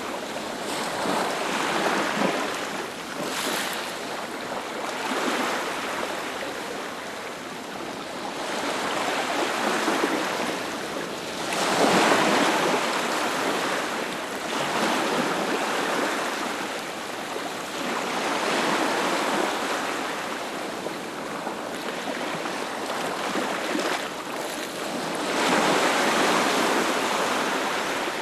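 Ocean waves breaking on a beach: a continuous surf wash that swells and falls back every few seconds, with the biggest waves about twelve seconds in and again near the end.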